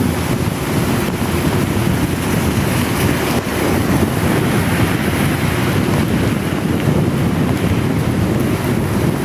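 Steady rush of wind over the microphone of a moving motorcycle, with the hiss of heavy rain.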